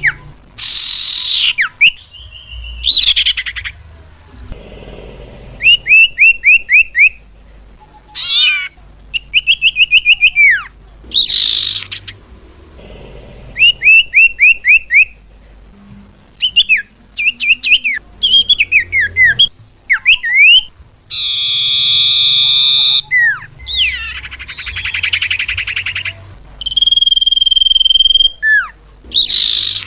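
Lure recording of cipau bird calls: loud, varied high chirps, with quick runs of repeated notes, rising and falling whistles, a harsh buzzy call partway through, and a held whistled note near the end, broken by short abrupt silences.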